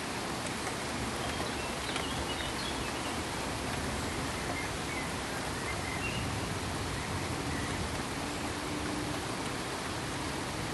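Steady pink noise: an even, unbroken rushing hiss spread across all pitches, with more weight in the lows than white noise.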